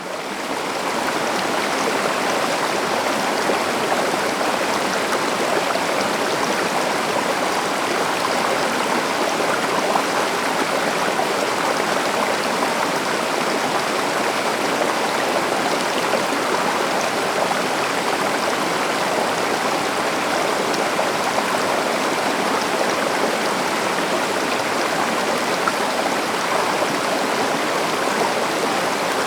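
River water flowing with a steady, even rush, fading in over the first second or so.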